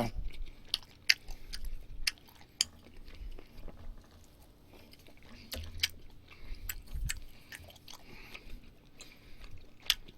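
A person chewing food close to the microphone, with many small wet clicks and smacks scattered throughout.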